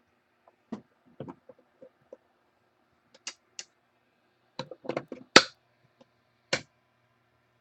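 Scattered light clicks and taps of trading cards and hard plastic card holders being handled, with a quicker, louder cluster about five seconds in.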